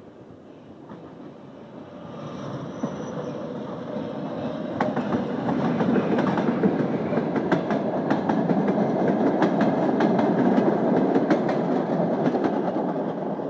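A ChME3 diesel-electric locomotive's train grows louder as it approaches and passes. From about five seconds in, its passenger coaches roll by close, with a rapid clickety-clack of wheels over the rail joints.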